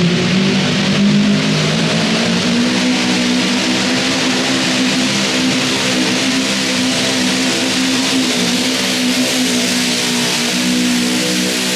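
Modified garden pulling tractor's engine running flat out under load during a pull: a loud, steady, high-revving drone that holds its pitch, climbing slightly near the start.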